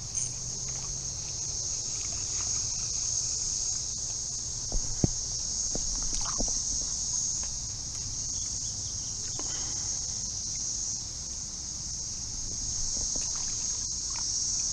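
Steady, high-pitched chorus of insects, with a couple of soft knocks about five seconds in.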